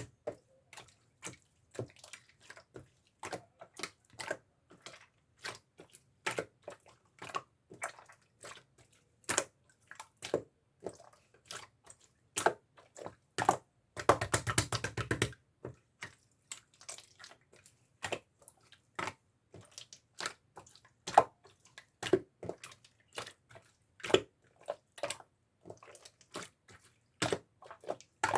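Clear slime being pressed, poked and stretched by hand, giving scattered sticky clicks and small wet pops, with a dense run of crackling for about a second and a half roughly halfway through.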